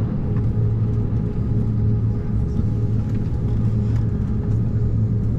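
Steady drone inside the cabin of an Embraer 190-E2 airliner: a low hum with a thin steady tone above it and a wash of air noise, unchanging throughout.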